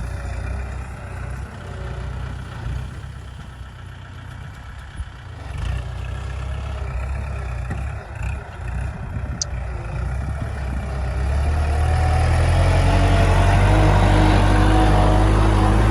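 Kubota L5018SP diesel tractor engine running, then revving up and getting louder about twelve seconds in, holding a steady higher note under throttle.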